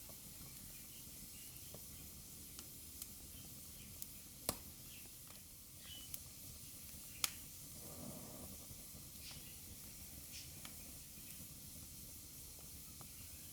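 Wood fire burning in a fireplace: a steady soft hiss with scattered sharp crackles and pops, the loudest about seven seconds in.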